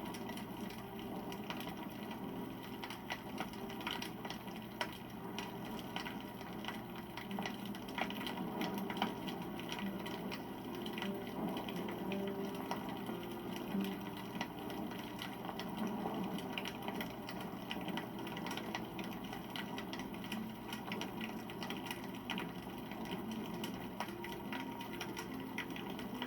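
Wood campfire crackling: many small sharp pops and snaps over a steady low rush of burning.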